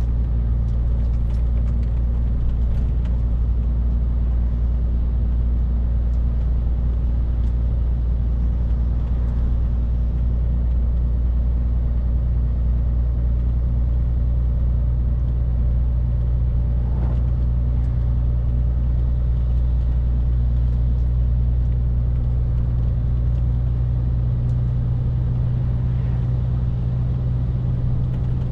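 Scania R450 lorry's 13-litre six-cylinder diesel running steadily while driving, a constant low drone with road noise.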